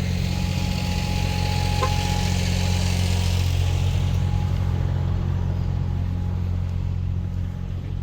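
Steady low rumble of a car heard from inside the cabin, running slowly in traffic, with a hiss over it that fades away about halfway through.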